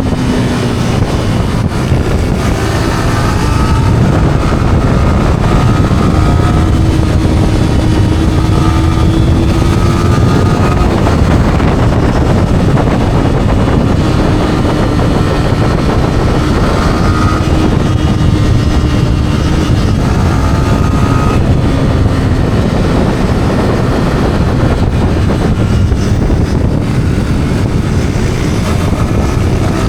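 Yamaha R15's single-cylinder engine running through its stock exhaust while riding. Its pitch shifts and drops out every few seconds as the throttle changes. Heavy wind rush on the microphone runs under it throughout.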